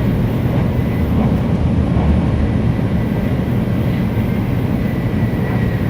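Steady low rumble and rush of a Shinkansen bullet train running at speed, heard inside the passenger cabin.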